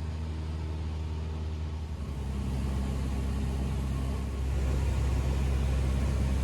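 Cessna 172's four-cylinder engine and propeller droning steadily inside the cabin in cruise, a little louder about two seconds in and again past four seconds.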